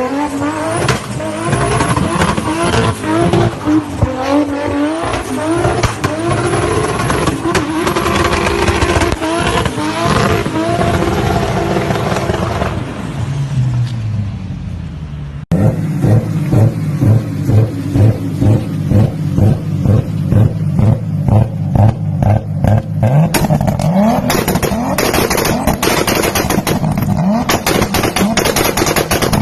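Car engine revved up and down repeatedly, its exhaust crackling and popping between revs. After a cut about halfway through comes a run of loud exhaust bangs, roughly two a second.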